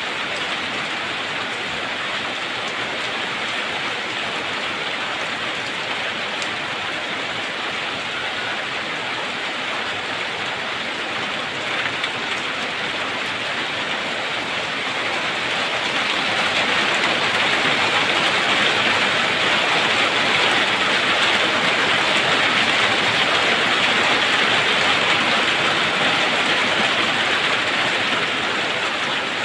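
Steady rain falling, a dense even patter that grows heavier about halfway through and eases slightly near the end.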